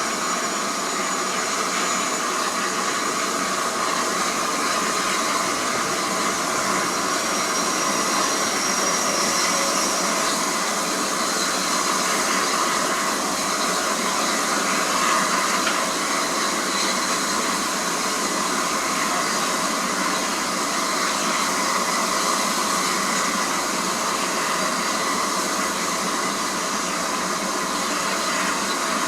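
Steam locomotive letting off a steady hiss of steam, with no exhaust beats.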